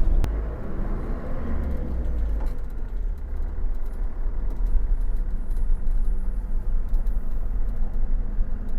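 Motor vehicle driving along a road: steady engine and road rumble.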